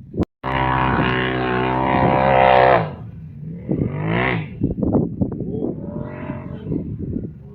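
An off-road machine's engine revving hard at high throttle for a couple of seconds, then backing off. It revs up and down again briefly twice, the pitch rising and falling.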